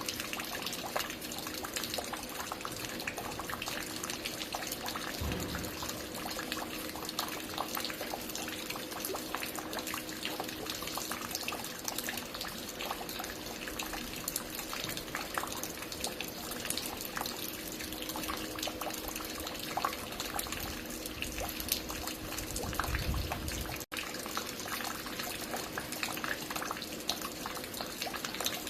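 Water falling and dripping continuously at a construction site, a dense steady patter of many small splashes, with a faint steady hum underneath. Two brief low rumbles break in, and the sound cuts out for a split second about three-quarters of the way through.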